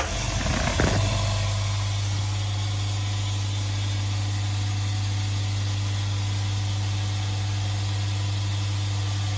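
SIP QT100/10 low-noise air compressor switching on and running up to speed within about a second, then running at a steady hum as it starts filling its tank from empty.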